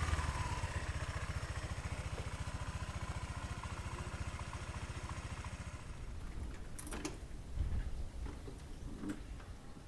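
Honda PCX125 scooter's single-cylinder engine idling with a steady beat, growing quieter about six seconds in. A couple of sharp clicks come near the end.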